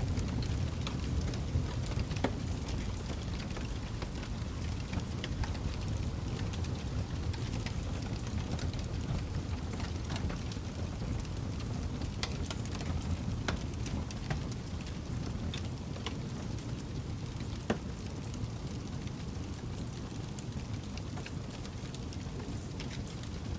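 Campfire burning: a steady low rumble of the flames with scattered sharp crackles and pops from the wood, one louder pop about eighteen seconds in.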